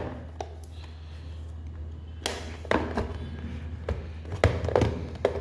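Hard plastic parts of a robot vacuum-mop's water container knocking and clicking as they are handled and pushed into place: a few sharp taps, scattered and uneven, most of them in the second half, over a steady low hum.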